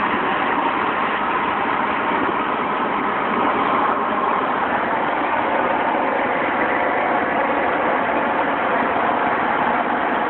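Steady freeway road noise from a car travelling at speed, an even rush of tyres and wind that does not change.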